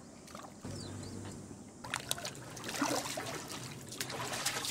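Water trickling and splashing, with irregular splashes of steps through shallow water on stone from about two seconds in.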